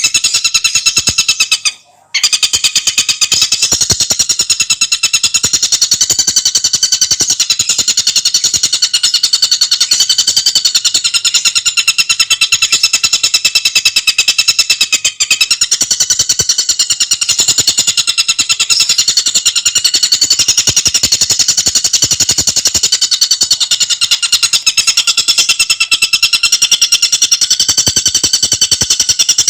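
A tengkek buto bird singing a fast, tightly packed chattering song, nonstop, with a brief break about two seconds in.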